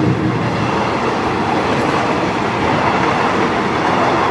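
Train hauled by State Railway of Thailand GEK-class diesel-electric locomotive 4043 passing close by, with a loud, steady rumble of wheels running over the rails.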